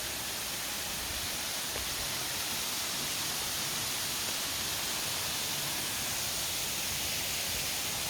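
Steady rushing hiss of water pouring down a waterfall on the Agura river, an unbroken, even roar.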